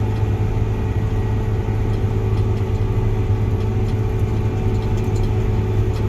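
Combine harvester's diesel engine running steadily under load as the machine climbs a steep hill in high gear, holding its speed well.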